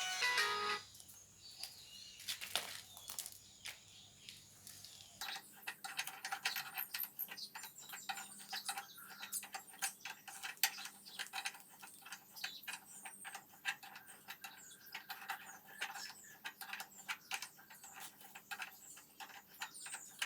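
Rapid light clicks and clinks of small metal parts being handled, sparse at first and much busier from about five seconds in.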